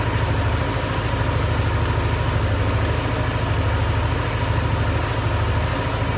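Yamaha Aerox 155 scooter's single-cylinder engine idling steadily on its fresh engine and gear oil.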